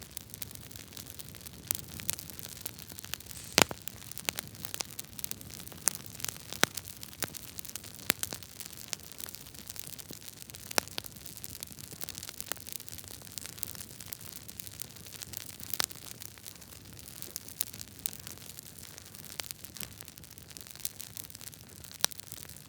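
Log fire burning in a fireplace: steady hiss with irregular sharp crackles and pops, one louder pop a few seconds in.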